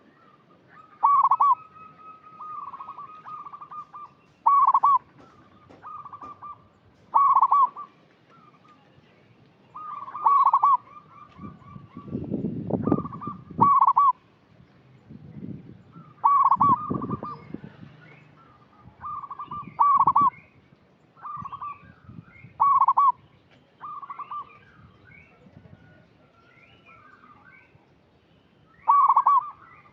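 Zebra dove (perkutut) cooing: short, loud coo notes repeated every second or two, with a low rumbling noise twice around the middle.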